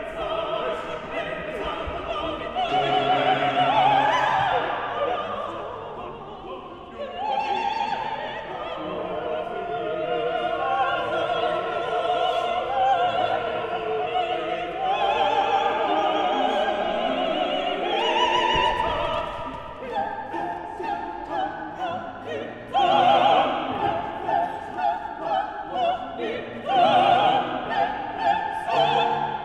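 Operatic singing: a trained voice singing phrases with wide vibrato over classical instrumental accompaniment.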